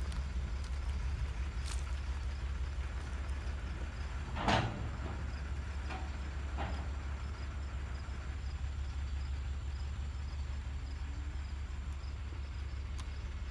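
A vehicle engine running with a steady low rumble, with one sharp clank about four seconds in and two fainter knocks shortly after.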